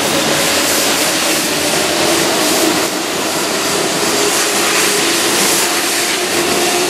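Keihan electric commuter train running through the station at speed, a steady rushing noise of wheels on rail.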